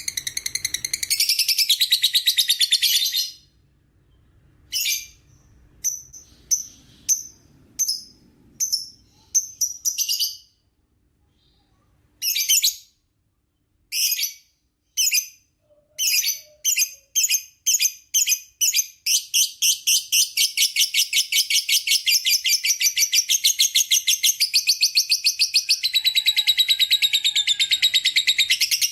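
Lovebird singing its long 'ngekek' chatter: a rapid, high-pitched trill. A fast run at the start breaks off about three seconds in into separate short calls with pauses, then speeds back up into a continuous trill for the last third.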